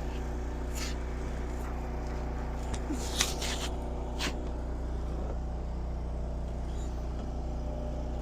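An engine runs steadily with a low, even drone, and a few light clicks or taps come over it about a second in and again around three and four seconds in.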